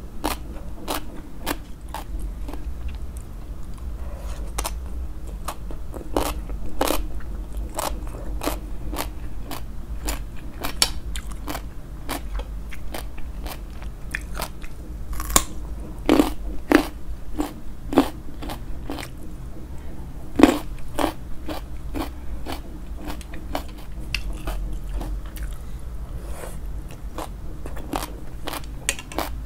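Close-miked chewing of crisp Thai green papaya salad (som tum): a steady run of sharp crunches, one to two a second, over a low steady rumble.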